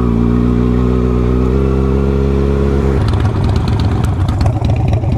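Motorcycle engine running at a steady pitch under way. About three seconds in the even engine note breaks off and gives way to a rougher, lower rumble.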